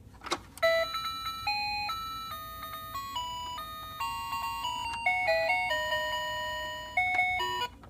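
Battery-powered toy motorcycle playing its built-in electronic tune through a small speaker: a click, then a bright beeping melody of held notes, changing about every half second, that stops suddenly near the end.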